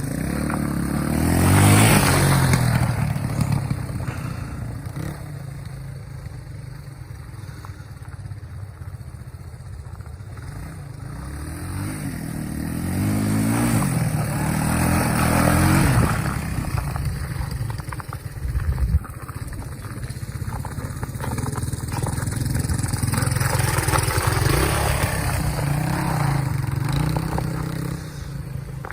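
1990 Honda XR200R dirt bike's single-cylinder four-stroke engine, ridden, revving up and easing off several times in long surges between steadier running.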